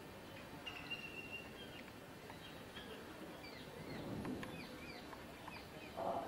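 Small birds chirping: a run of short, high chirps and whistles over faint outdoor background, with a low rustle around four seconds and a brief louder sound near the end.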